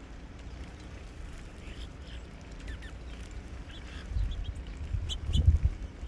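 A few faint, short bird calls over a low rumble that swells in gusts in the second half.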